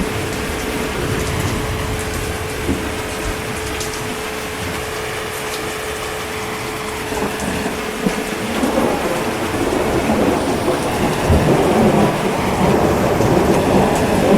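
Steady rain falling, with a low rumble of thunder building and rolling through the second half.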